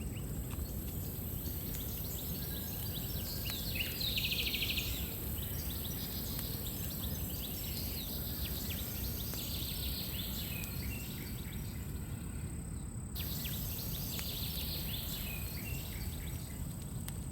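Outdoor nature ambience: a steady low rumble of background noise with scattered high chirps and a short fast trill about four seconds in, from birds or insects.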